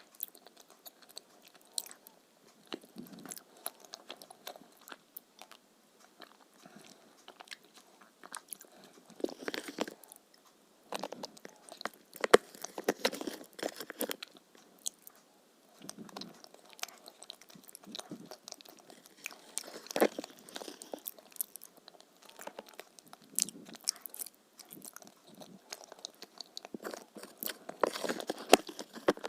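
A person chewing and biting crunchy food, with irregular crunches and louder clusters of crunching now and then.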